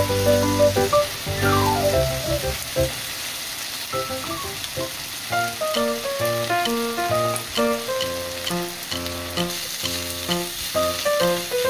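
Fried rice with pork and bean sprouts sizzling on a hot grill pan while a wooden spatula stirs it. Background music plays over it, with a quick falling run of notes near the start.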